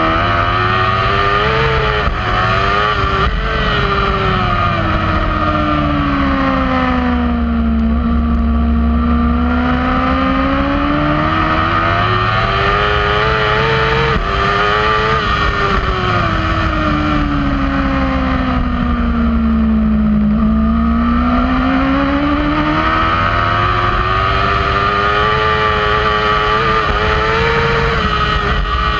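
Kawasaki superbike engine at race pace, heard from on the bike. Its pitch climbs hard and then falls away in long swells, dropping lowest about eight seconds in and again about twenty seconds in, then climbing again near the end.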